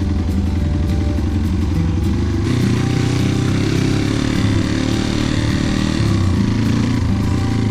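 Trail motorcycle engine running under way, its pitch shifting about two and a half seconds in and again around six seconds as the throttle changes.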